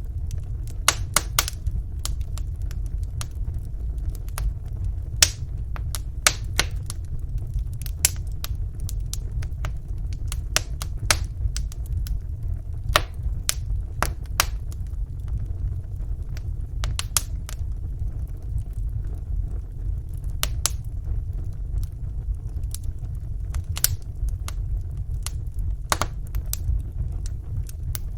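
Wood fire burning in a fireplace, with irregular sharp crackles and pops, some louder than others, over a low steady rumble of the flames.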